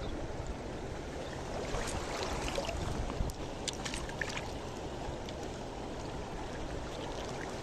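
Mountain river water rushing steadily, with a few faint sharp ticks about two to four seconds in.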